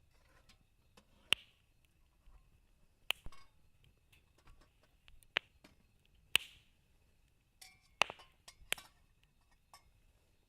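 Wood burning in a campfire, crackling with about six sharp, irregular pops and faint ticks between them.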